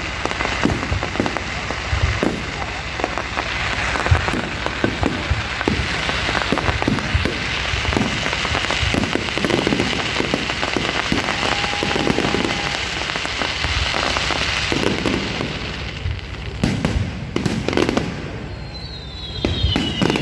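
Fireworks going off in a dense, continuous run of crackles and bangs.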